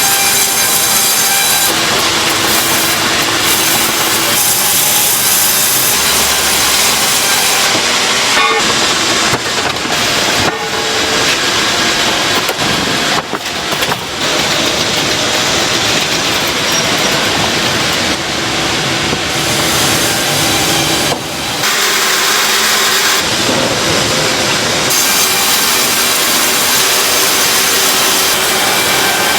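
Production machinery in a cabin-air-filter factory running with a loud, continuous grinding and hissing noise, dipping briefly a few times.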